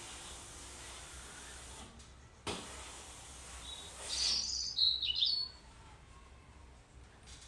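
Wild birds calling: a short burst of sharp, high calls about four to five seconds in, over a steady outdoor background.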